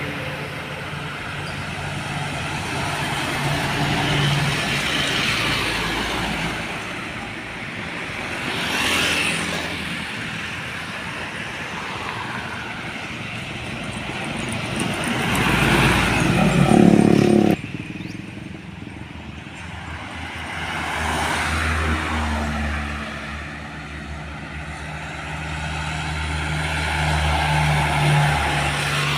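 Road traffic: trucks and other vehicles passing one after another, each swelling and fading, with low engine drones. A little past halfway the sound drops off abruptly after its loudest pass.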